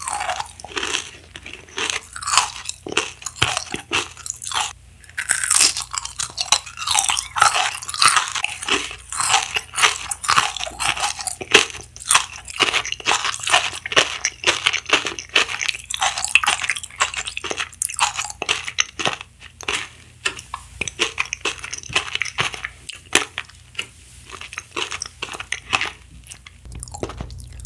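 Close-miked chewing of a strawberry-flavoured pink jelly candy, a dense run of small irregular crackling crunches and wet mouth sounds.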